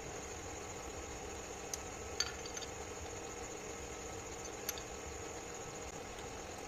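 Steady hum of a running lathe, with three light metallic clinks, the second one loudest.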